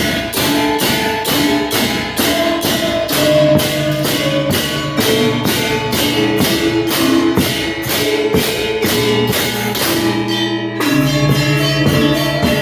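Balinese gamelan ensemble playing a tabuh telu: bronze metallophones carrying the melody over a steady clashing beat of about four strokes a second. The beat drops out for a moment near the end.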